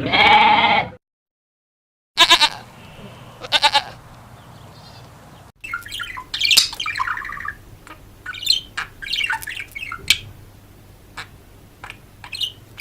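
A sequence of animal calls from separate clips. A loud pitched call ends about a second in, then after a pause come two short, high calls, and from about the middle a rapid series of short sharp squawks and chirps.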